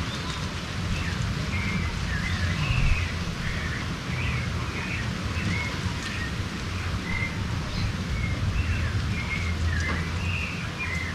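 Birds calling and singing in a string of short chirps, over a steady low rumble of wind on the microphone.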